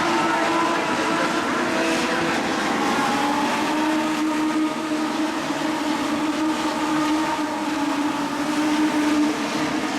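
Legends race car engines running at racing speed: a steady, loud drone with several engine tones drifting slightly up and down in pitch.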